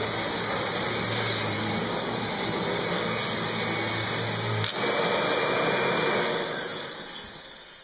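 Kirby G3 upright vacuum cleaner running steadily while picking up popcorn and dirt from the floor. There is a sharp click a little past halfway, and the sound dies away over the last second or two.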